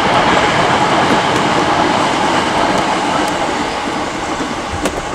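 A train passing close by: a loud, steady rumble and rattle that slowly fades, with a single sharp slap near the end.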